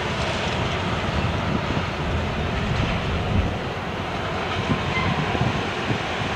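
Freight cars of a BNSF manifest train rolling by on curving track: a steady noise of steel wheels on rail with scattered low thumps.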